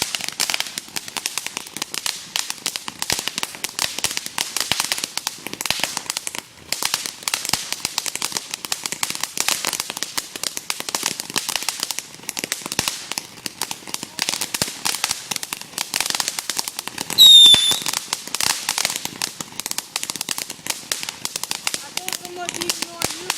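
Ground fireworks crackling continuously with dense, rapid pops, and a brief shrill whistle about seventeen seconds in, the loudest moment.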